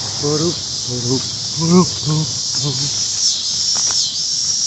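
A chorus of cicadas in the trees, a steady high shrill buzz that swells and dips about once a second near the end.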